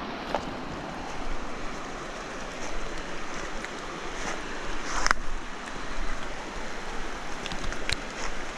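River water rushing and lapping, with wind rumbling on the microphone. A few short sharp sounds stand out above the water, the loudest about five seconds in.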